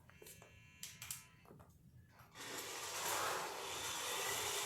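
A toy RC car's small electric motor starts whirring about halfway through and runs on steadily, after a few faint clicks.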